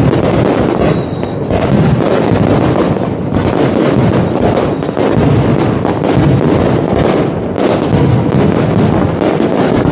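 Large aerial fireworks display: shells bursting in quick, overlapping succession, loud and without a break.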